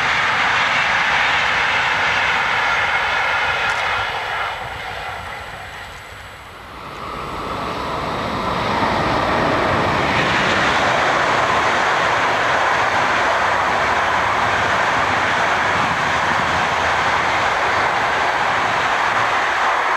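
Electric locomotive-hauled passenger trains passing close by, a steady rush of wheels on rail. The sound fades away about four seconds in, then a second train rises back in from about seven seconds and keeps passing.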